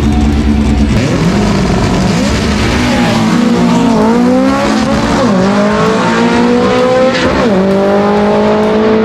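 Air-cooled Volkswagen drag car engine at full throttle, its pitch climbing and then dropping sharply at each of several gear changes.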